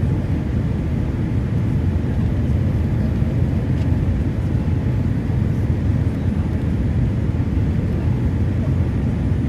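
Steady low rumble of an airliner's engines and airflow heard inside the passenger cabin during the descent to land.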